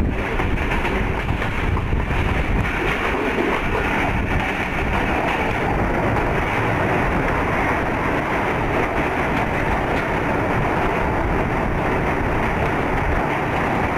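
Passenger train running along the track, heard from on board as a steady rumble, with wind buffeting the microphone.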